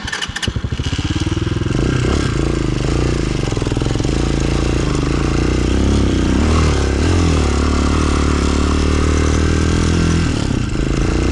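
Chinese 250cc single-cylinder dirt bike engine chugging at low revs, then revving up and running steadily under load. The revs drop briefly near the end.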